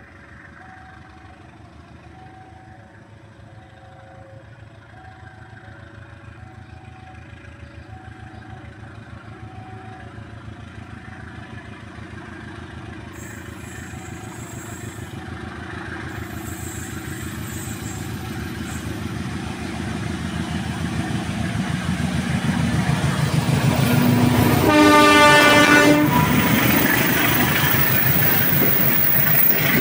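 A level-crossing warning signal alternating between two tones, with the rumble of an approaching diesel-hauled passenger train growing steadily louder under it. Late on, the locomotive sounds its horn once for about a second and a half, and the train passes close by, its wheels clattering on the rails.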